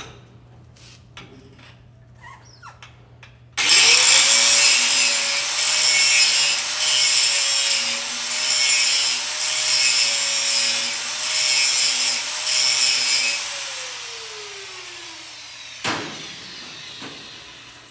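An angle grinder starts suddenly and grinds down a weld on a steel coupon, the grinding noise swelling and easing about once a second as it is worked back and forth. It is then switched off and winds down with a falling whine, and there is a short knock just after.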